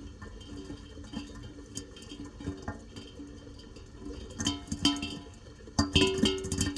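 Rain drops striking hard surfaces in a scatter of sharp clicks and pitched clinks, growing heavier and louder in the last two seconds.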